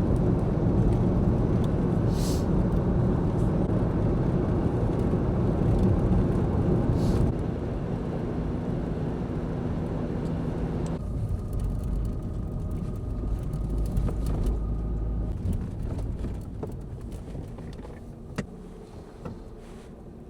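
Camper van driving, a steady low engine and road rumble. It drops a little about seven seconds in, turns duller around eleven seconds and fades away near the end.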